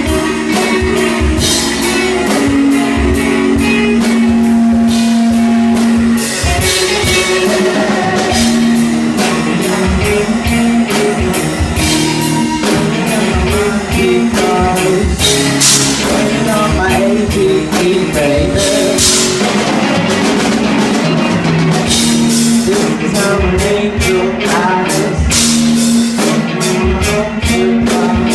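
Live rock band playing: drum kit with steady cymbal strokes, electric guitar and a singer, recorded loud and rough, what the uploader calls bad sound.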